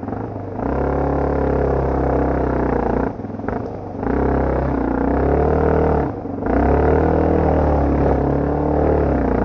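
Dirt bike engine revving up and down under throttle, with the revs dropping briefly about three seconds in and again about six seconds in as the throttle closes.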